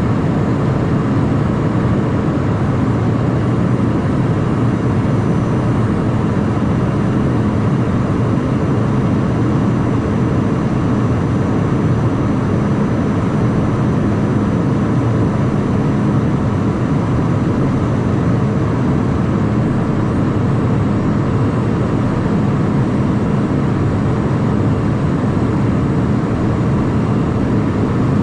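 Steady noise inside the cockpit of a Cessna Citation Mustang light jet: engine and airflow noise from its twin turbofans, running evenly with a faint underlying hum and no change in level.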